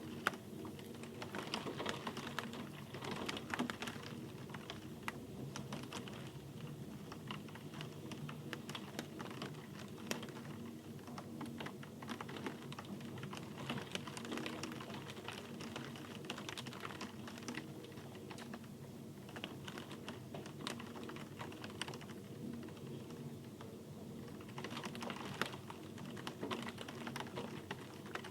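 Steady rain, with dense, irregular drops ticking on a hard surface over a low steady hum.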